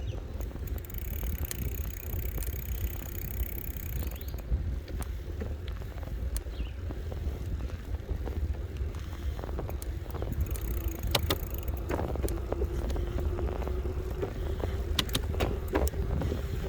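Ride noise on an electric bike: a steady low rumble of wind and road on the microphone, with scattered rattles and clicks. A steady hum joins in during the second half.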